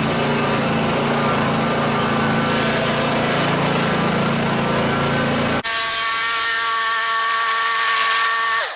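A workshop machine's motor running steadily with a low hum. About two-thirds of the way through, the noisy part cuts off abruptly, leaving a steady whine that drops in pitch just before the end.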